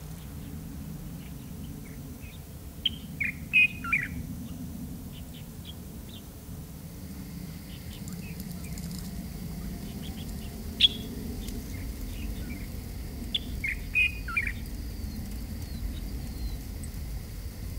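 Small birds chirping now and then, with two similar short falling call phrases about ten seconds apart and a sharp single chirp between them, over a steady low rumble.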